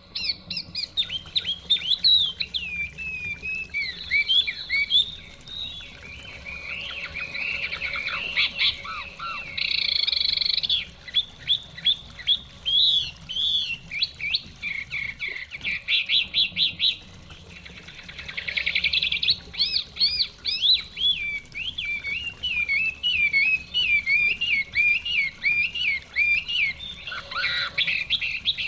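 Chinese hwamei (họa mi) singing a continuous, varied song of whistled phrases, with runs of fast repeated notes and rapid warbling.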